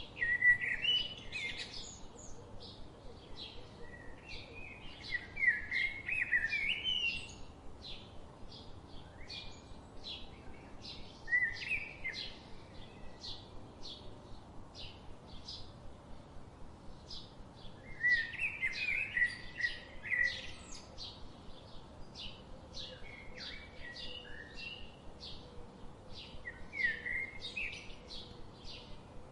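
Songbirds singing in a forest: several short warbled song phrases come in bouts, loudest about a second in and near the middle, over a steady run of short high chirps repeating about twice a second.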